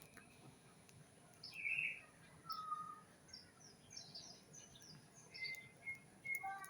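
Several small birds chirping and calling: many short, high chirps, a clear whistled note, and a quick run of short repeated notes near the end.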